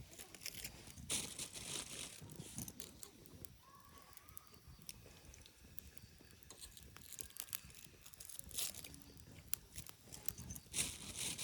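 Irregular light crackles and rustles, with scattered sharp clicks and a few short louder rustling bursts, about a second in and near the end.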